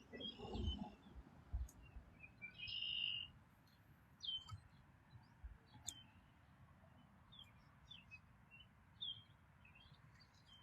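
Songbirds chirping: scattered short, high calls, some dropping in pitch, with a louder burst about three seconds in. A few low knocks sound in the first two seconds.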